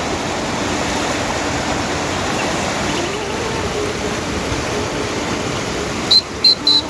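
Steady rushing of water, a dense even hiss. Near the end, three short high chirps come in quick succession.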